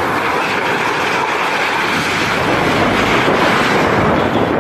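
Storm wind blowing hard: a loud, steady rush with wind buffeting the microphone.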